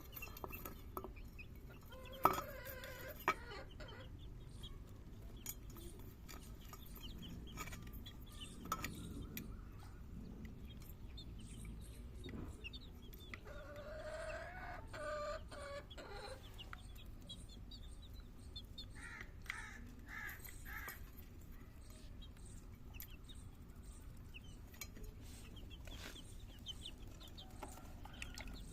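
Chickens clucking, with a long rooster crow about halfway through and a few shorter calls, over faint high chirping of small birds and a few sharp knocks.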